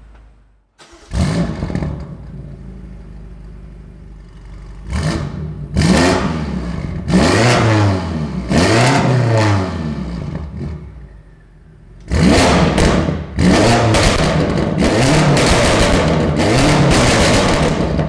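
BMW F90 M5 Competition's twin-turbo V8, with catless downpipes and the petrol particulate filter (OPF) removed, being revved hard. It comes in loudly about a second in and settles to idle. It is blipped in several rising-and-falling revs, then in a faster run of sharp revs over the last six seconds. The louder, fuller V8 note is freed by deleting the cats and the OPF.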